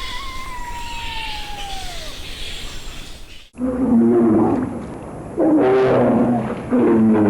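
A thin pitched animal call rises quickly, then glides slowly down over about two seconds. After a sudden cut come three loud pitched animal calls, each about a second long.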